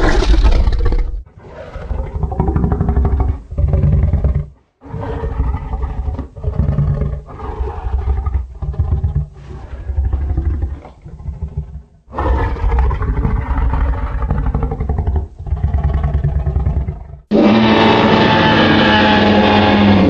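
A series of Tyrannosaurus rex sound-effect roars and growls, about a dozen separate calls of one to two seconds each. Near the end, a different steady, loud sound starts abruptly.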